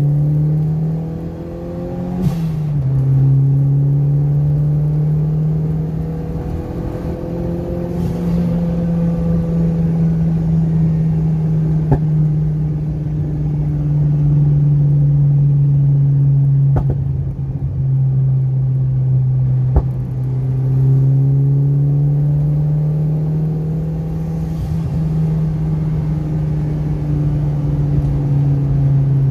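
Turbocharged Proton Satria Neo's four-cylinder engine and exhaust heard from inside the cabin while driving, a steady low drone whose pitch drops once about two seconds in, then rises and falls gently. A few sharp clicks sound during the drive.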